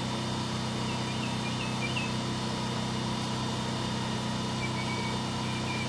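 Steady low hum of a motor running, with faint short bird chirps about a second in and again near the end.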